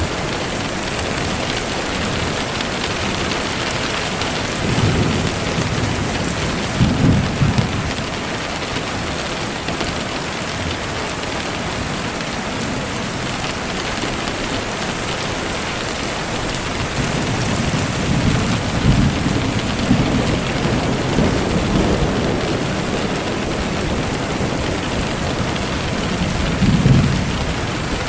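Steady heavy rain falling, with low rolls of thunder rumbling up a few times: about five seconds in, a longer roll through the middle, and again near the end.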